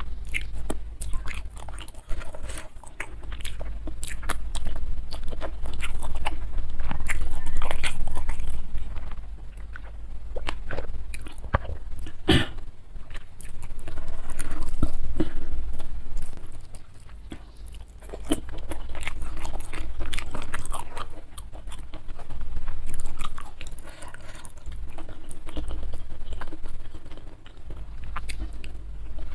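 Close-miked chewing and crunching of mouthfuls of rice with boiled fish and vegetables, with many sharp wet mouth clicks. The chewing rises and falls in bouts, with one louder crack about twelve seconds in.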